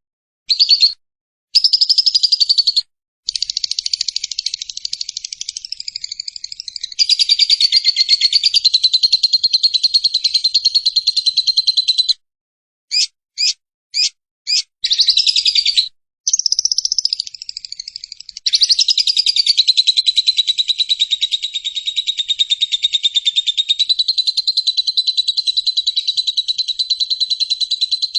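Lovebird 'ngekek': long, rapid chattering trills at a steady high pitch, each running several seconds, broken by short pauses and a few brief chirps near the middle.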